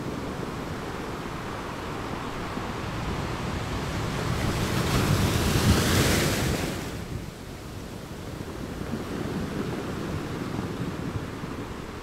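Ocean surf breaking over rocks: a steady wash of white water, with one wave building to a loud crash between about five and seven seconds in. The crash falls away suddenly, and a quieter rush of foam follows.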